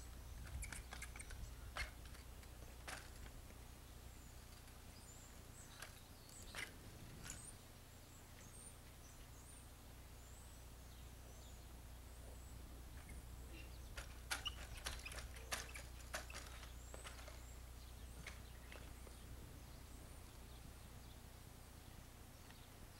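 Faint outdoor ambience: birds chirping over a steady low hum, with scattered sharp clicks, several close together in the middle.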